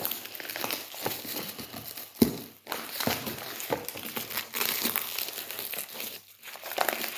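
Packaging crinkling and rustling as a parcel is unwrapped by hand, with a single sharp knock about two seconds in.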